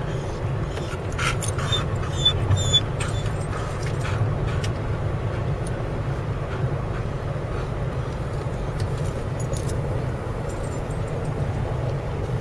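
Steady low rumble like a car running, with a few faint clicks in the first few seconds.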